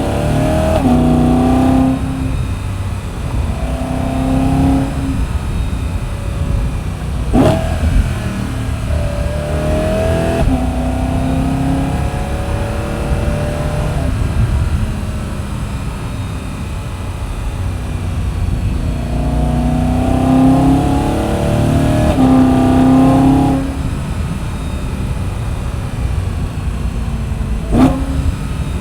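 BMW E92 M3's 4.0-litre V8 through its M Performance muffler, pulling away in several spells of acceleration, each a rising engine note that drops back at a shift or lift, with steady cruising in between. Two sharp knocks, one about seven seconds in and one near the end.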